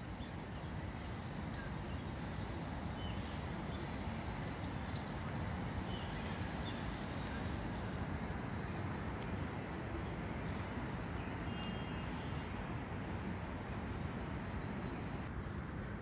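A small bird calling over and over with short, high chirps that slide downward, coming faster, about two a second, in the later part and stopping abruptly near the end, over a steady low background noise.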